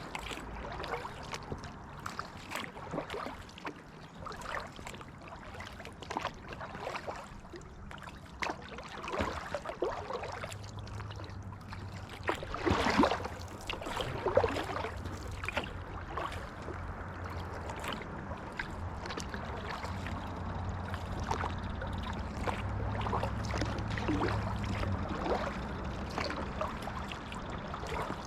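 Kayak paddle strokes dipping into the water, splashing and trickling off the blade in an irregular rhythm. One stroke about thirteen seconds in is the loudest.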